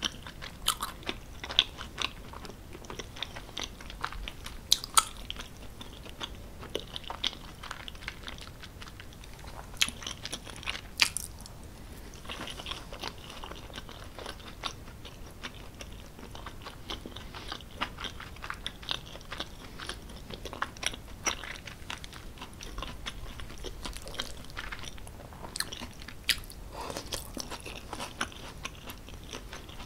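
Close-miked chewing of a mouthful of creamy tortellini pasta with bacon and vegetables: many small mouth clicks, scattered unevenly.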